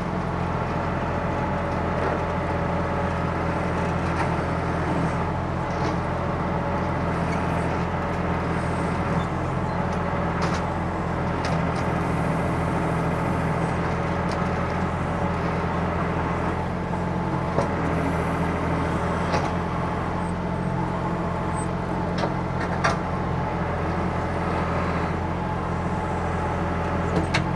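Ford 555 backhoe's engine running steadily under load while it works a boulder, with a few light clanks now and then.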